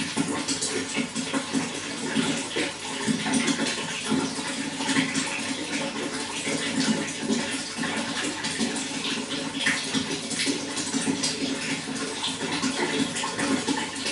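Running water flowing steadily, with a continuous rush and small splashes.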